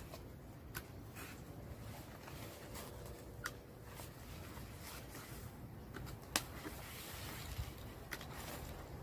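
Faint, scattered sharp clicks and rustling as stiff yucca leaves are trimmed at their tips with a hand cutting tool.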